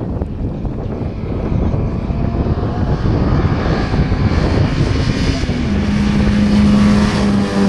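Rally car approaching with its engine running hard and getting louder. A rough rumble gives way, about three-quarters in, to a steady held engine note.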